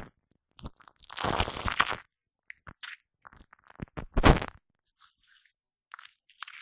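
Shaving foam squished and worked against a Blue Yeti microphone, giving wet crackling and popping in irregular bursts, with one longer burst about a second in and the loudest just after four seconds.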